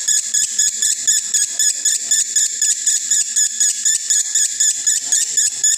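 Male lovebird singing a long unbroken run of rapid, high chirps at about five or six a second. This is the continuous 'konslet' chatter of a male in breeding condition.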